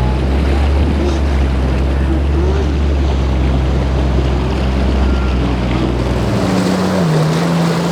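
Motorboat engines running over the noise of waves and wind on the microphone. About six seconds in the deep drone drops away and an engine's pitch dips and then climbs again.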